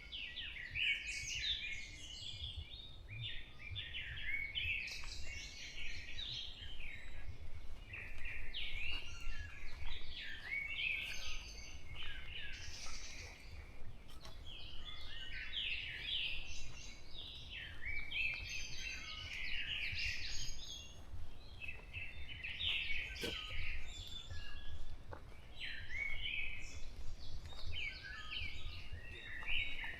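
Dawn chorus of many songbirds in a forest: dense, overlapping chirps, trills and short song phrases from several birds at once, over a steady low rumble.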